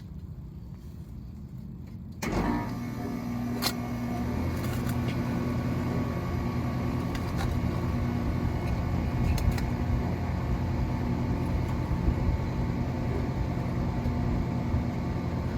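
A motor starts suddenly about two seconds in and then runs steadily, with a few light clicks over it.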